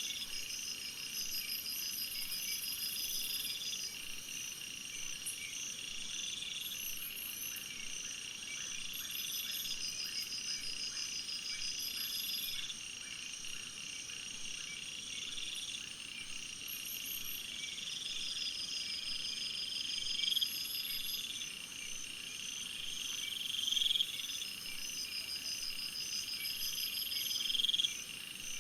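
A steady chorus of calling animals made of several overlapping high-pitched trills and pulse trains. One rising trill repeats every two to three seconds and gets louder toward the end.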